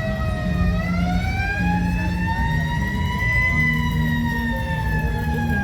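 A siren wailing: one long tone that rises to a peak a little past the middle and then slowly falls, over a low vehicle rumble.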